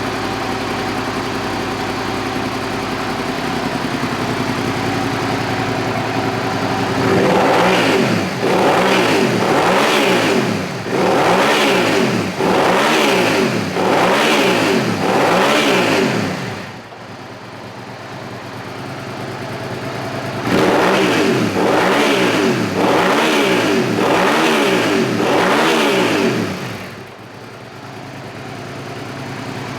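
Suzuki SV650's 645 cc 90-degree V-twin engine idling steadily, then revved in two runs of quick throttle blips, about one a second, dropping back to idle between and after them.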